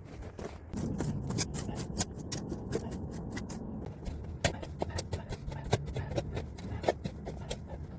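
Irregular scraping and clicking of hand tools working soil and gravel, with many short, sharp scrapes, densest in the first few seconds.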